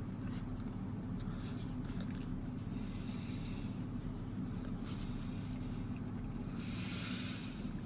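A man chewing a mouthful of corn dog: scattered small mouth clicks over a steady low hum, with two soft breathy exhalations, one about three seconds in and one near the end.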